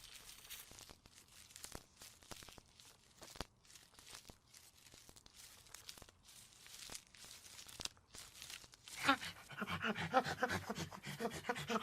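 Faint scattered clicks and rustling, then from about nine seconds in a dog panting quickly and rhythmically, about four breaths a second.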